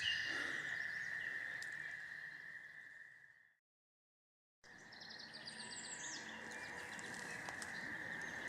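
Outdoor ambience of birds chirping over a steady high-pitched drone. It fades out to silence about three and a half seconds in and fades back in a second later.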